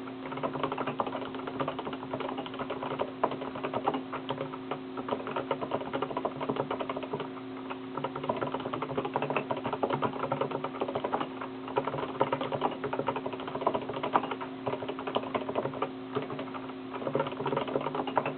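Rapid, irregular clicking of keys being typed, over a steady low electrical hum.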